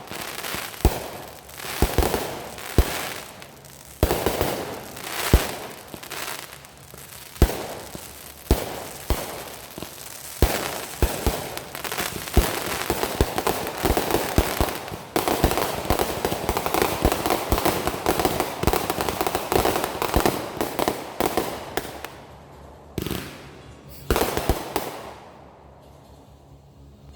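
Consumer fireworks going off: a rapid series of sharp bangs with crackling between them, densest through the middle and thinning out to a few last bangs near the end.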